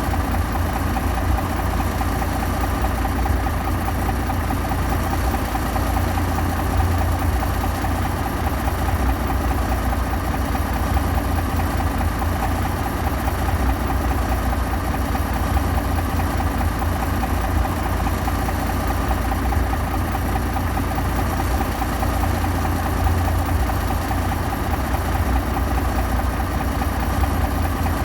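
Diesel engine of heavy earthmoving machinery running steadily, with a strong low drone and no revving.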